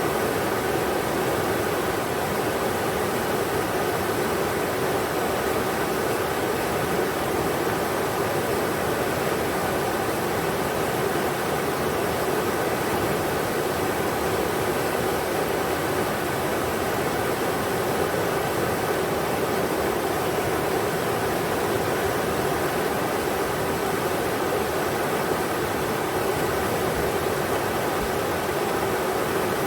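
Englishman River's water rushing over rocks, a steady, even roar.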